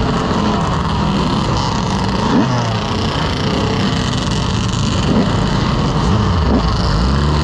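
Motorcycle engines running and revving, several short rises and falls in pitch, over a steady loud rush of noise.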